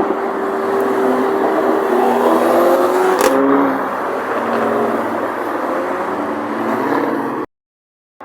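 Car engines running and revving, their pitch gliding gently up and down, with a sharp click about three seconds in; the sound cuts off abruptly near the end.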